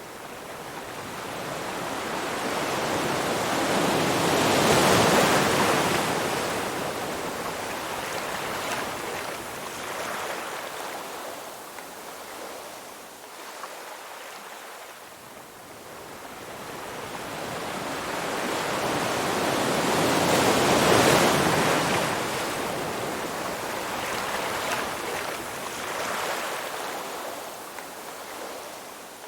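Ocean waves breaking and washing on the shore: two big waves crest, about five seconds in and again about twenty seconds in, with smaller swells between.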